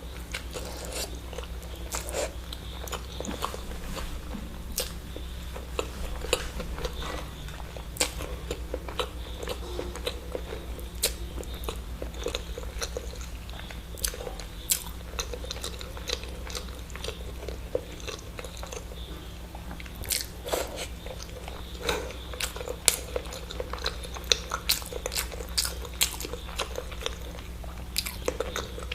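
A person eating eggs close to the microphone: chewing with many sharp, irregular mouth clicks and smacks, over a steady low hum.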